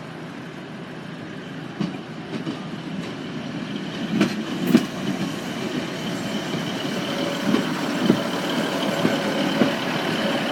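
Class 156 Sprinter diesel multiple unit rolling over the level crossing, its wheels clacking over the rail joints now and then as it grows gradually louder.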